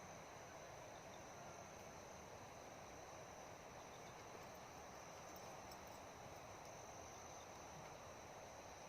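Very faint forest ambience: a soft, even hiss of wind through pine trees, a 'shh', under a steady high insect trill.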